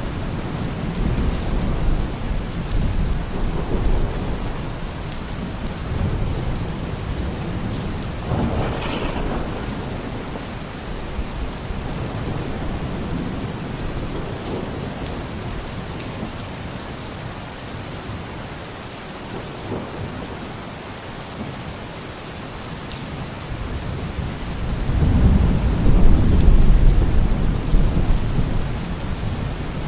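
Steady rain during a thunderstorm, with low rumbles of thunder rolling in and out; the loudest roll of thunder builds near the end.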